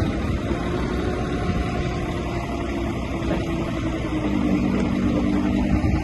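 Heavy diesel earthmoving machinery running steadily. About four seconds in, a second engine note joins it and grows louder.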